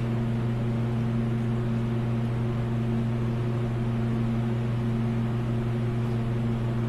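A steady, low electrical hum of a running machine, one unchanging pitch with its overtones.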